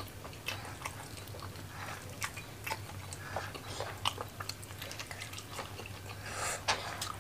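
Close-up mouth sounds of eating roasted chicken by hand: wet chewing with many short smacks and clicks, over a steady low hum.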